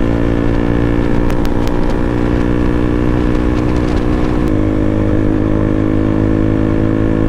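KTM RC 200's single-cylinder engine through an aftermarket Akrapovic full-system exhaust, running steadily at cruising speed. The note shifts slightly about four and a half seconds in, and a few faint clicks sound between one and two seconds in.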